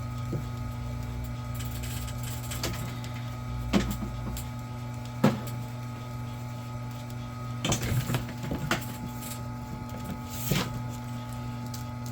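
Vevor electric wire stripping machine's motor running with a steady hum, with a few short clicks and knocks from handling about four, five, eight and ten seconds in.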